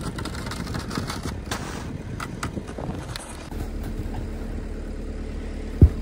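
Off-road truck engine running while the vehicle is stuck in deep snow. Scattered knocks come through in the first few seconds, the engine note steadies and grows a little louder about three and a half seconds in, and there is one sharp low thump near the end.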